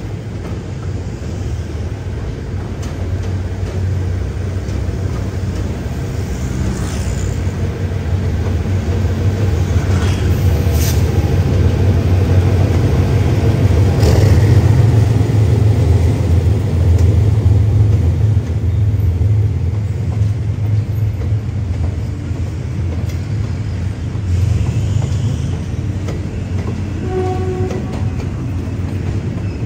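Diesel locomotive hauling a Thai passenger train past, its engine rumbling low and swelling to its loudest about halfway through as it goes by. Then comes the steady roll of the passenger coaches on the rails.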